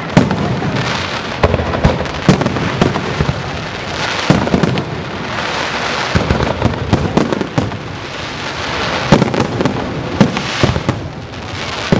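Fireworks display: aerial shells bursting one after another in an uneven, rapid series of loud bangs, with continuous crackling between them.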